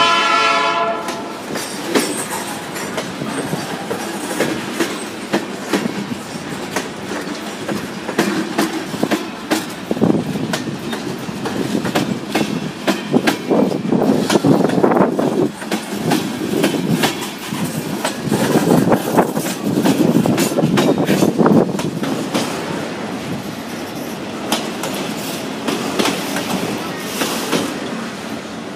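A freight train of autorack cars passing at close range: steady rolling wheel and rail noise, with many sharp clicks as the wheels cross bolted rail joints. A locomotive horn sounds at the start and stops about a second in.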